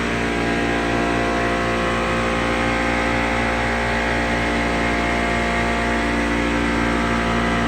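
MRI chiller machinery running: a loud, steady hum with several fixed tones that hold unchanged throughout.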